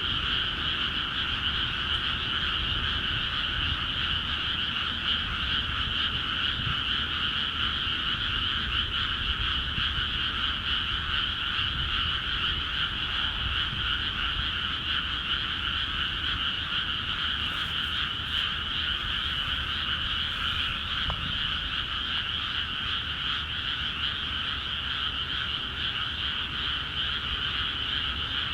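Dense chorus of many frogs calling at once in freshly flooded rice paddies: a steady, unbroken wall of croaking.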